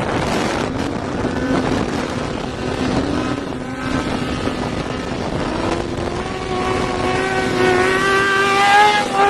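Motorcycle engine running at high speed under a rush of wind noise, its pitch climbing steadily through the second half as it accelerates.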